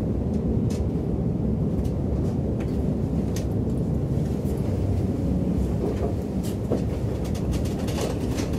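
Intercity train carriage rumbling steadily along the track, heard from inside the carriage, with scattered sharp clicks from the wheels on the rails.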